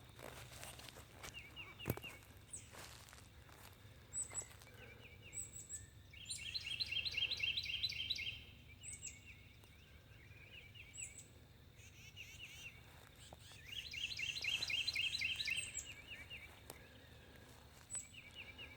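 Small birds chirping in a tree. Two longer songs of fast repeated high notes come about six and fourteen seconds in, with short, sharp chirps between them, over a steady low background hum.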